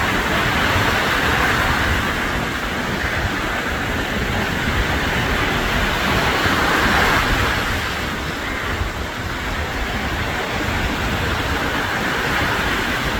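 Sea surf washing on the shore, a steady hiss that swells and eases every few seconds, with wind buffeting the microphone as a rough low rumble.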